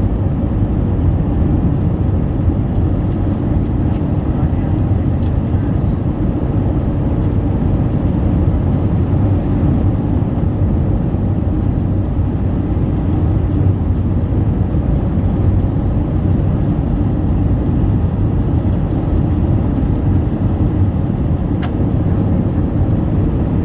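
Steady, loud cabin rumble of airflow and engines inside an Airbus A319 with IAE V2500 engines in flight, heard from a window seat; low and even, with no distinct bumps or changes in power.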